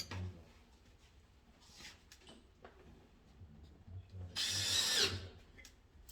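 A power drill-driver runs in one short burst of under a second, its whine falling in pitch as it stops. Light clicks and handling knocks sound around it.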